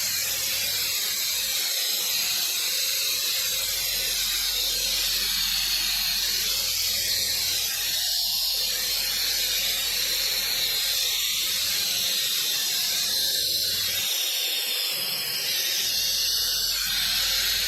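Vacuum brake bleeder hissing steadily as it draws old brake fluid out of the motorcycle's brake master cylinder.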